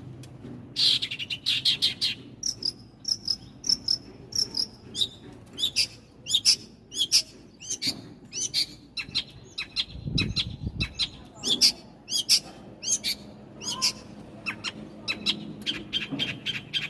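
Small birds chirping: a steady run of short, sharp, high chirps, about one to two a second, with a brief low rumble about ten seconds in.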